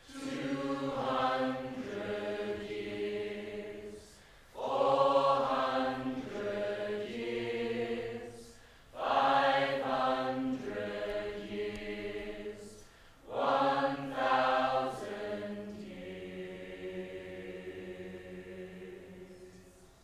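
Several voices singing together in a slow, chant-like style, held notes in close harmony without words heard. Four long phrases, each entering strongly and then fading, the last one dying away near the end.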